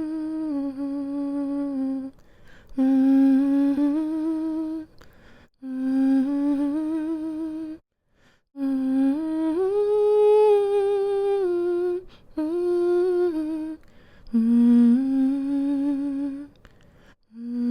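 A woman humming a slow, soothing lullaby tune in short phrases of held notes, some with a gentle vibrato, with brief pauses for breath between phrases.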